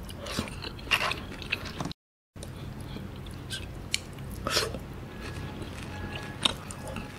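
Close-up mouth sounds of a person chewing a handful of rice with smoked beef (daging salai) and cassava shoots in coconut-milk gravy, with scattered short wet clicks and smacks; the beef is a little tough. The sound cuts out completely for a moment about two seconds in.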